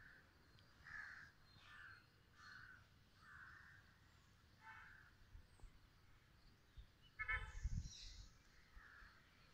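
Faint bird calls repeating roughly once a second, with one louder, harsh call about seven seconds in.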